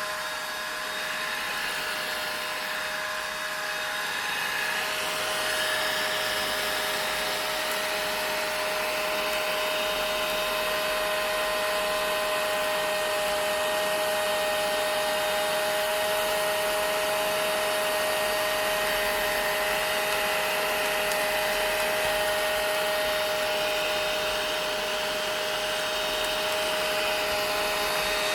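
Vacuum cleaner running steadily: a constant motor whine over a rushing hiss of air, getting slightly louder about five seconds in.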